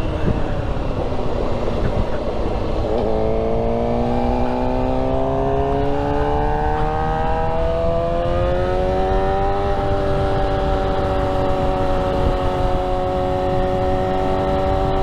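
Suzuki motorcycle engine under way. The note drops over the first few seconds, then rises slowly and evenly as the bike accelerates through one gear, and settles into a steady cruise at about ten seconds in. Wind rushes over the microphone throughout.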